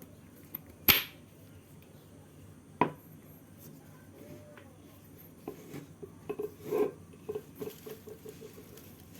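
Sharp clinks of hard objects being handled: a loud one about a second in, a second one with a short ring near three seconds, then a run of lighter knocks and rattles in the second half.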